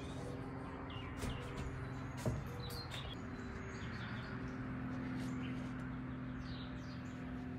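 Birds chirping now and then over a steady low hum, with a few light knocks.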